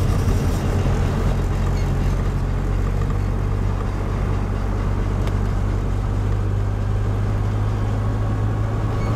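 A car driving at steady speed, its engine and tyre rumble heard from inside the cabin as a constant low drone.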